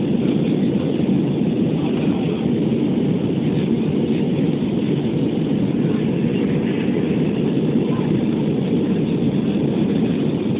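Steady cabin noise inside an Airbus A320 in its climb after takeoff: a deep, even rush of engine and airflow noise that does not change.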